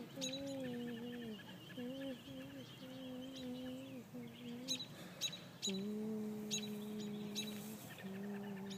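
Birds chirping outdoors: short sharp chirps every second or so, with a high wavering trill through the first half. Under them runs a louder low hum that steps between a few held pitches, the longest held for about two seconds.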